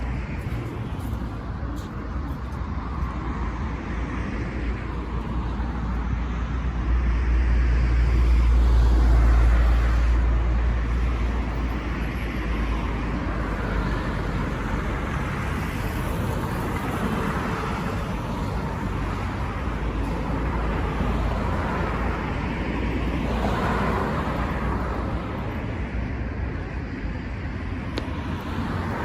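City street ambience with steady traffic noise. A deep low rumble of a motor vehicle passing close swells and fades about seven to eleven seconds in.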